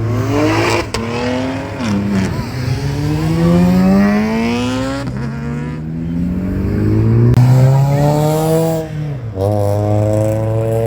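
Car engine revved hard several times, its pitch climbing over a couple of seconds and then dropping sharply, about three times over.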